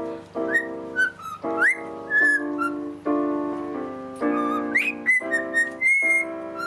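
Parrot whistling short notes, several sliding quickly upward, over background music of sustained keyboard-like chords.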